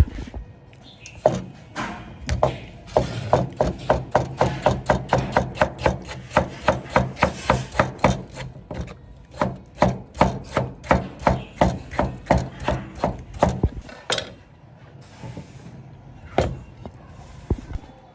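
Knife chopping on a wooden cutting board: a steady run of sharp chops, about three a second, for some twelve seconds, then a few scattered knocks near the end.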